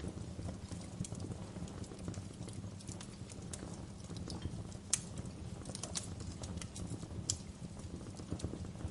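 Wood fire crackling in a fireplace: irregular sharp snaps and pops, the loudest about five, six and seven seconds in, over a steady low rumble of the flames.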